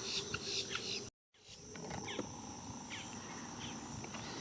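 Wetland ambience: a steady high-pitched insect drone with many short chirping bird calls over it. The sound drops out completely for a moment about a second in, then resumes.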